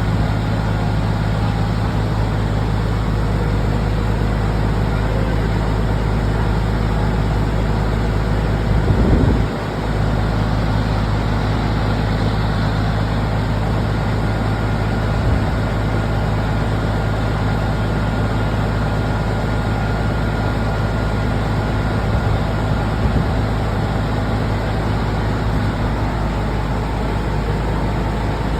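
A road vehicle's engine and road noise, a steady low drone while driving. About nine seconds in it briefly swells louder and then dips.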